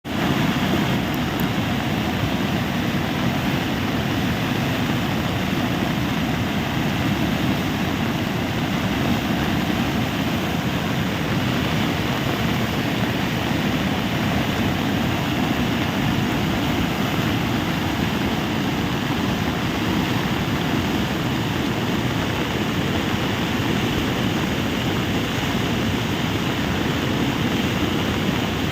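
Steady rushing noise of fast-flowing floodwater, strongest in the low range and unchanging throughout.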